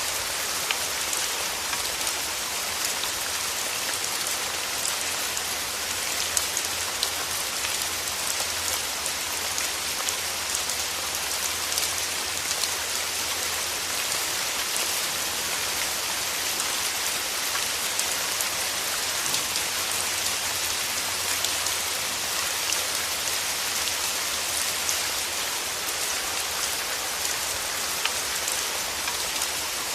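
Steady rain falling through forest trees: an even hiss of rainfall scattered with many small individual drop ticks.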